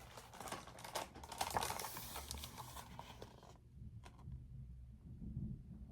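Picture book's paper pages rustling and crinkling as a page is turned, a run of quick crackles that stops abruptly about three and a half seconds in.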